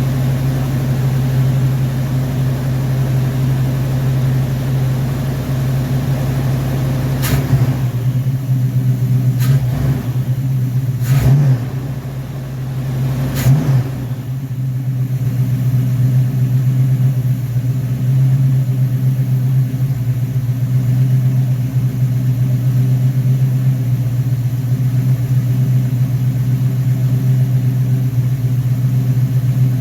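Car engine running on a freshly rebuilt Rochester Quadrajet four-barrel carburetor during its first test run, with a steady low hum. A few sharp clicks come in the middle, with a brief dip in level among them.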